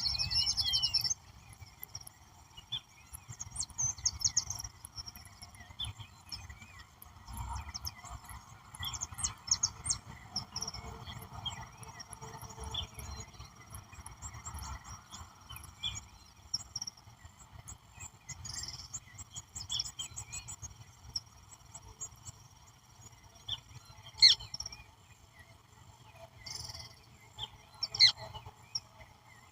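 Evening cerrado soundscape: many birds calling with short chirps and trills, over a steady background chorus of insects.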